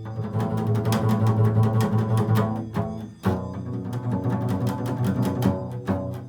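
Improvised music on a low bowed string instrument: held low notes, with a new note starting about three seconds in and another at the very end.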